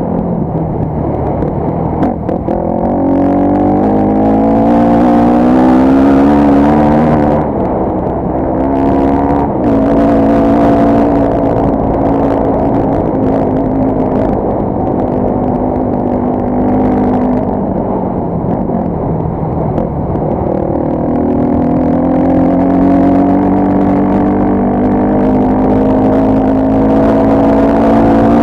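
Off-road motorcycle engine running under load, heard from the bike. Its pitch climbs from a couple of seconds in, drops back around eight to ten seconds, holds fairly steady, then climbs again in the last third as the throttle opens.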